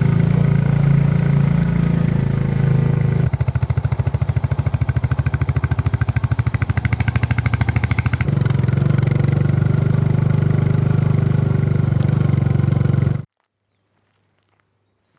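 Royal Enfield Classic 350's single-cylinder engine running loud and steady, its individual thumps standing out plainly for about five seconds in the middle before it evens out again; the sound cuts off suddenly about thirteen seconds in.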